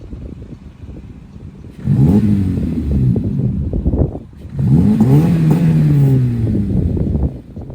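2012 Honda Civic 1.8L four-cylinder engine through an aftermarket eBay Fireball muffler: idling, then revved twice in quick succession, each rev climbing and falling back. The exhaust note is deep.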